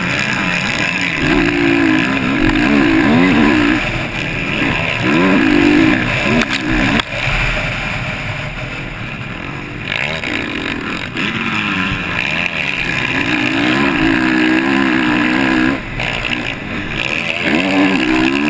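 Motocross motorcycle engine at race pace, heard from on the bike, its pitch repeatedly rising and falling as the throttle opens and closes through the course.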